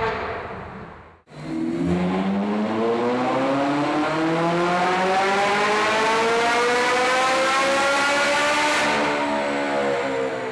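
Ferrari 458 Italia's V8 with a Fabspeed exhaust, its note climbing smoothly and steadily in pitch for about eight seconds, then easing off slightly near the end. About a second in, a brief drop to near silence comes just before the climb begins.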